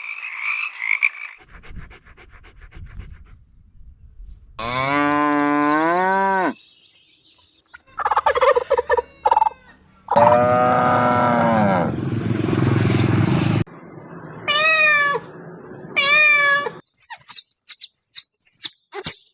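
Cattle mooing: two long calls, one about five seconds in and a louder one about ten seconds in. Shorter, higher-pitched animal calls follow, and thin high chirping near the end.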